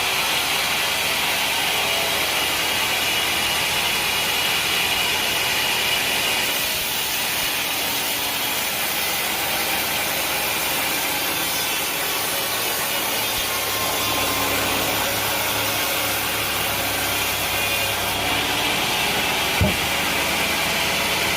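Sawmill saw running steadily as it cuts mahogany wood, a continuous noisy whir. A deeper hum joins about two-thirds of the way in, and there is a single short thump near the end.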